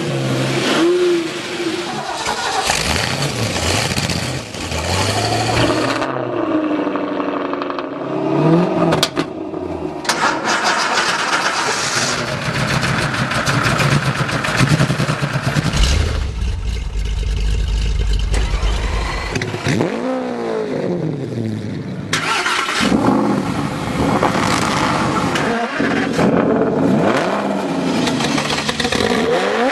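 Performance car engines revving hard in a string of short clips, their pitch climbing and dropping again and again. The sound changes abruptly several times from one car to the next.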